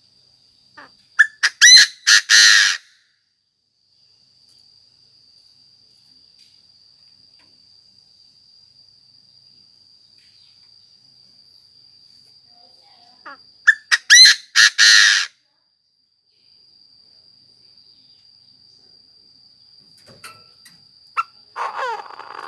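Chinese francolin (đa đa) cock giving its loud territorial call, a burst of several rapid, ringing notes, repeated about twelve seconds later, with a fainter, lower call near the end. A thin steady high-pitched whine runs between the calls.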